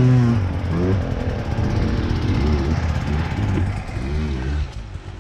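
A motorcycle engine revving up and down repeatedly, easing off about four and a half seconds in.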